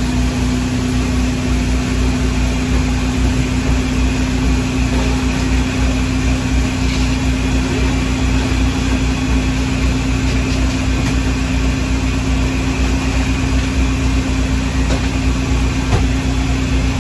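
A steady machine hum: one constant mid-pitched tone held over a low rumble.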